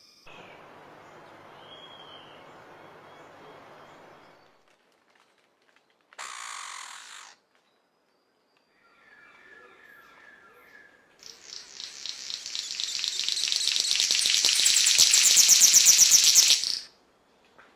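A run of separate forest sounds: a soft hiss with a short chirp, a brief call, a few thin whistled tones, then a loud, rapidly pulsing high buzz. The buzz builds for about five seconds and stops suddenly.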